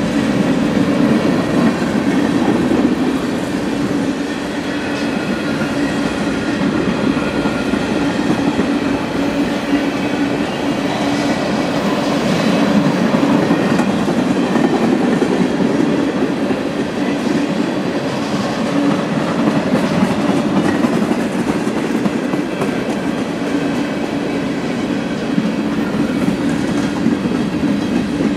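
Cars of a CSX manifest freight train rolling past at steady speed: a continuous rumble of steel wheels on rail, with faint high squealing tones coming and going.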